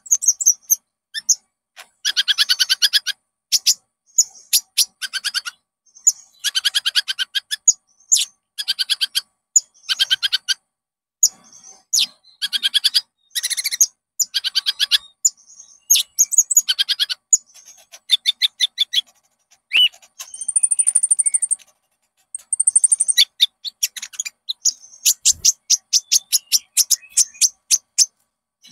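Konin bird song: repeated bursts of rapid, high chattering trills with short pauses between, and a couple of thin high whistles in the second half. The recording is a lure song (pancingan) meant to set caged konin birds singing.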